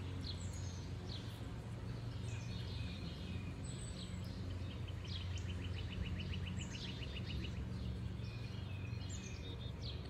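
Songbirds calling and singing, with many short descending chirps and a fast rattling trill for a couple of seconds around the middle, over a steady low rumble of outdoor background noise.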